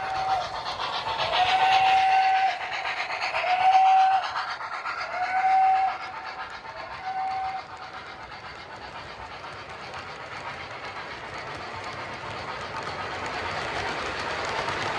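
Steam locomotive whistle sounding a series of blasts, one long and several shorter, the last about seven and a half seconds in. After that comes a steady train running noise that grows louder toward the end.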